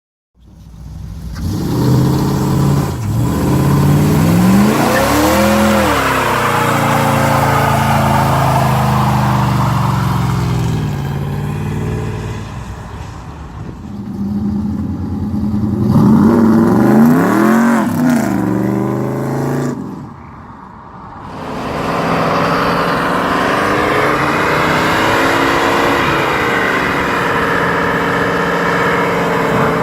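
Car engine revving hard, its pitch climbing and falling back twice. After a short lull it is held at high revs under a steady rushing noise.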